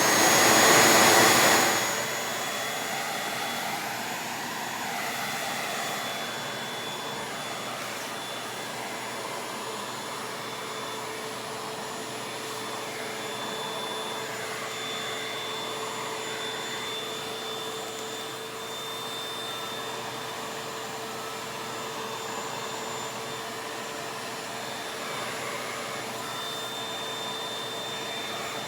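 Vacuum cleaner running, a steady rush of suction with a high motor whine. It is loudest for about the first two seconds, then settles to an even level.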